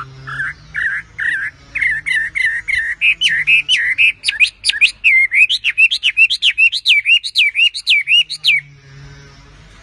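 A wambi songbird singing a long run of quick repeated whistled notes, each one swooping up and down. The notes speed up and grow louder, then stop suddenly.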